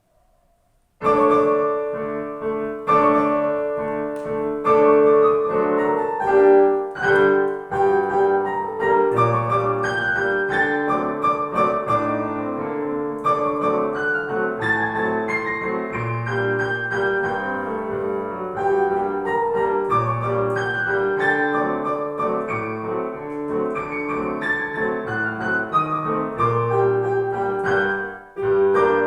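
A piano duet playing a classical piece, beginning about a second in, with low bass notes under the melody and a short pause near the end.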